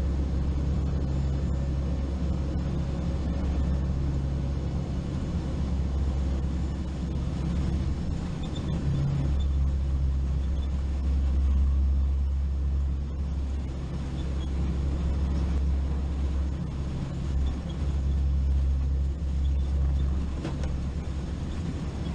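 Steady low drone of aircraft engines heard inside the cabin of a hurricane-hunter plane, an even rumble with a constant hum underneath.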